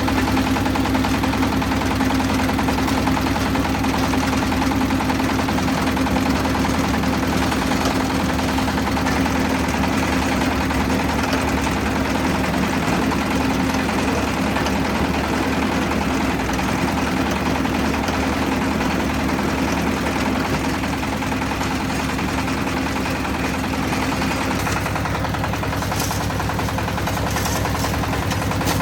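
Concrete mixer's engine running steadily, its tone changing about 25 seconds in.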